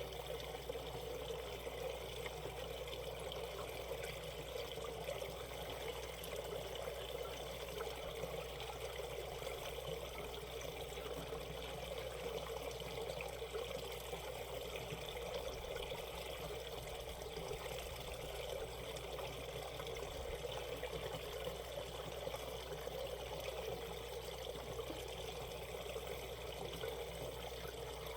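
Valley stream water flowing over rocks in a steady, even babble and trickle.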